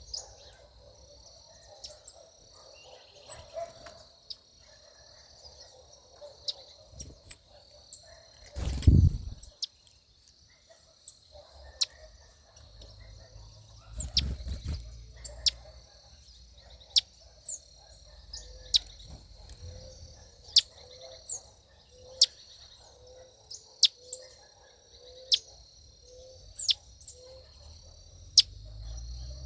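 Small birds calling in a backyard: short, sharp, high chirps repeated about once a second over a steady high background buzz, with a soft lower note repeating in the second half. A low thump comes about nine seconds in and another about fourteen seconds in.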